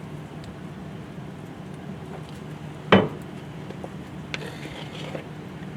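A single sharp metallic clank about three seconds in, then a lighter clink and brief scraping, over a steady low hum: steel parts of a skid steer's hydraulic bucket cylinder knocking as the gland and rod are worked out of the barrel.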